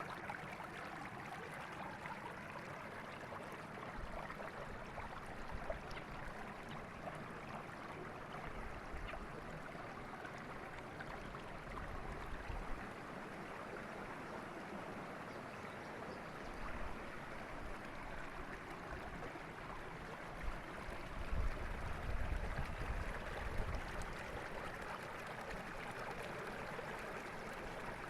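River water flowing steadily over rocks, an even rushing and gurgling. A few low rumbles come and go, strongest a little past two-thirds of the way through.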